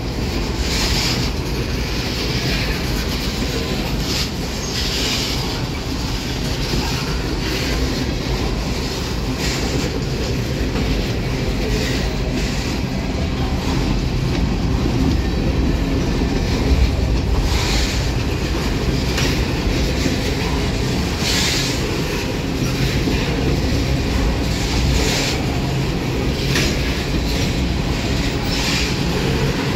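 Freight train cars, boxcars then covered hoppers, rolling past close by: a steady rumble of steel wheels on rail, with short bursts of higher-pitched wheel noise every few seconds.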